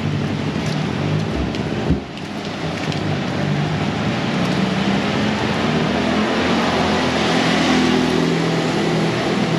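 Heavy tropical downpour falling steadily, with a motor vehicle's engine humming through the middle and a single sharp knock about two seconds in.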